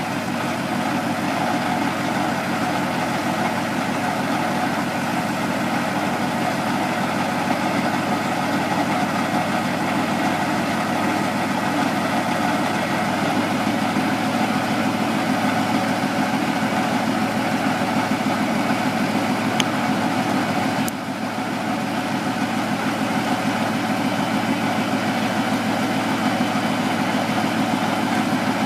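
Truck engine idling steadily, with a single click and a brief dip in level about two-thirds of the way through.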